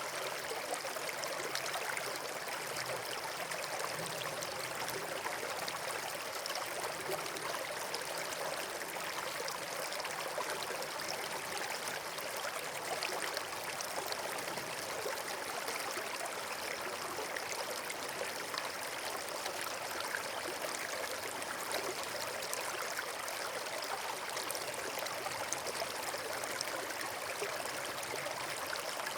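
Steady rushing of running water, an even hiss that never pauses or changes.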